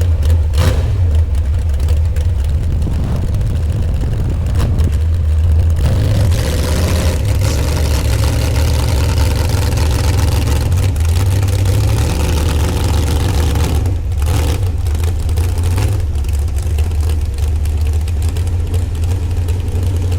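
Truck engine running with a loud, steady low rumble.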